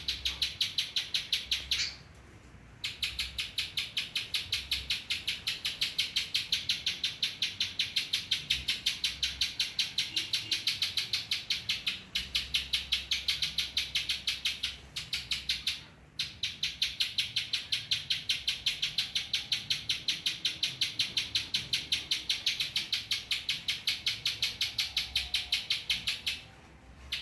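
Spiderhunter (pijantung) singing a learned bar-winged prinia (ciblek) song: long runs of rapid, evenly repeated high notes, about five a second, with short breaks about 2 and 16 seconds in.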